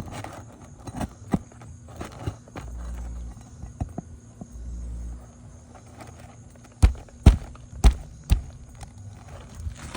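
Flat pry bar being worked under a roofing shingle and struck to seat it beneath a nail head: small knocks and scrapes, then four sharp strikes about half a second apart near the end.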